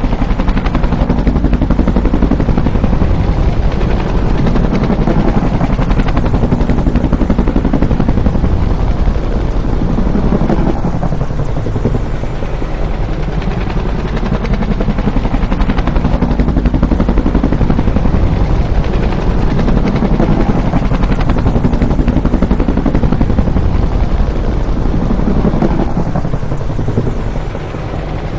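Bell UH-1 "Huey" helicopter: its two-blade main rotor beating fast and evenly over the turbine, loud throughout, swelling and easing every few seconds, with a brief dip near the end.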